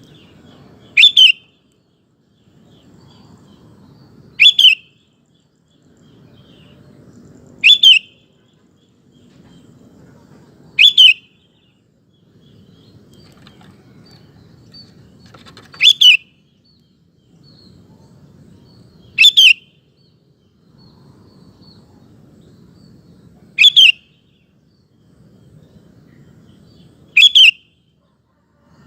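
Sooty-headed bulbul (kutilang) calling: eight short, loud two-note phrases about every three to four seconds, with a longer pause partway through. A faint low rumble sits between the calls.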